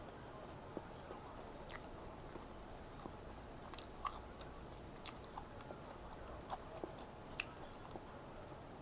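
A person chewing food close to the microphone: irregular small mouth clicks, with a sharper one about four seconds in.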